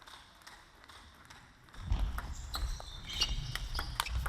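Table tennis rally: a quick run of sharp clicks from the celluloid-type ball striking the paddles and the table. About two seconds in, a low rumble sets in under the clicks, with a few brief high squeaks.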